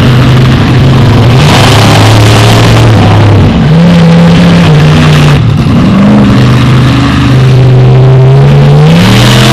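Monster truck engine revving hard, its pitch climbing and dropping several times as the throttle is blipped, very loud throughout.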